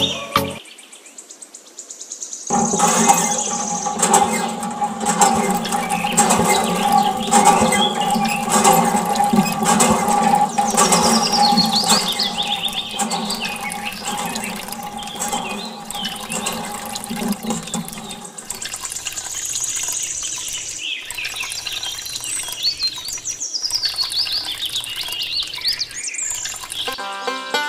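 Water pouring from a thin tube into a small pool of water, splashing and gurgling steadily; it starts about two and a half seconds in. A steady hum runs under it and drops away about two-thirds of the way through.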